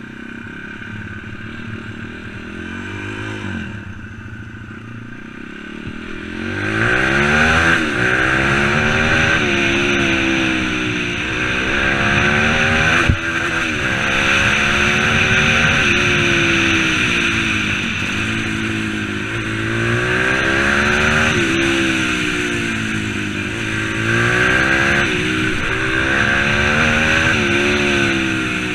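M2R 140cc pit bike's single-cylinder four-stroke engine running low and steady for about six seconds, then pulling away and revving, its pitch rising and falling repeatedly as the throttle opens and closes. A single sharp click about thirteen seconds in.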